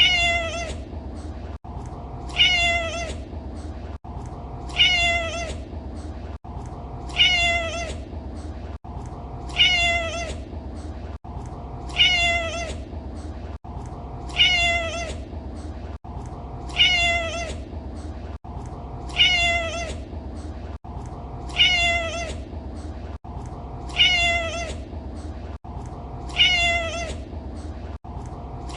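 A domestic cat meowing again and again at even intervals, about one meow every two and a half seconds, each the same call repeated as a loop, over a steady low hum.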